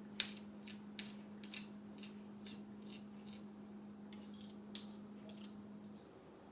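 A run of about a dozen sharp, crisp snipping clicks, roughly two a second, with a steady low hum underneath that stops about six seconds in.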